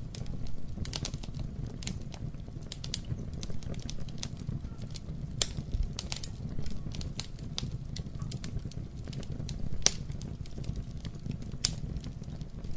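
Campfire burning: irregular sharp crackles and pops from the wood over a low steady rumble of the flames, with a few louder pops standing out.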